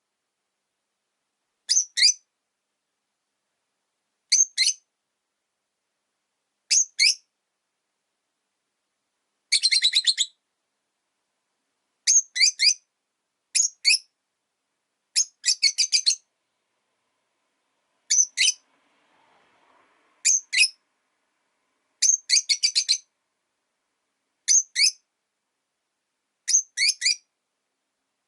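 Rosy-faced lovebird chirping: short bursts of a few shrill, rapid chirps, repeated about every two seconds with quiet gaps between.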